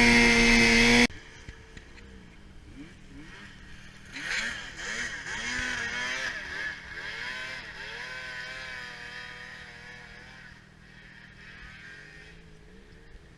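Arctic Cat F800 snowmobile's two-stroke twin engine: a loud, high, steady rev that cuts off abruptly about a second in, then the sled at a distance revving up and down repeatedly, loudest a few seconds later and fading toward the end.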